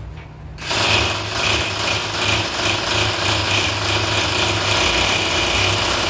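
A handheld power tool runs at full speed for about six seconds, starting a little under a second in, with a fast even pulsing through its noise.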